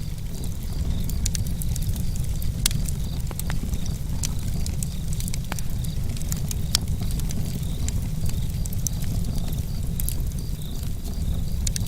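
Campfire crackling: irregular sharp pops and snaps of burning wood, scattered through the whole stretch over a steady low rumble.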